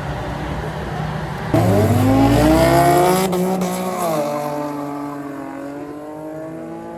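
Drag race car engine launching hard: it goes from a steady idle to a sudden loud rise in pitch, with a drop at a gear change about four seconds in. It then climbs again, fading as the car pulls away.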